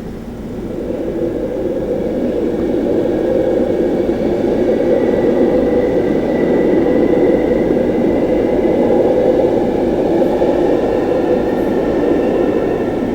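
Passenger train rolling over a level crossing: a steady rumble of wheels on rail that builds over the first couple of seconds, holds, and begins to ease near the end, with a faint high whine in the middle of the pass.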